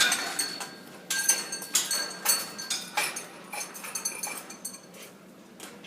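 Small metal bell toy in a pet bird's cage being struck and shaken by the bird, giving irregular ringing clinks, two or three a second, that die away near the end.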